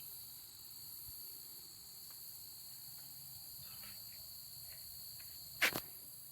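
Steady high-pitched chorus of crickets, with one short sharp knock about five and a half seconds in.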